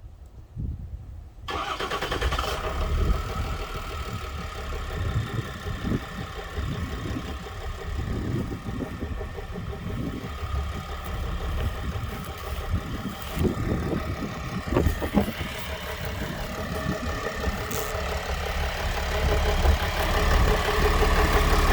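2006 Ford LCF's 4.5-litre Power Stroke V6 diesel starting about a second and a half in, then settling into a steady idle. It is a warm start, after the engine has sat for about an hour.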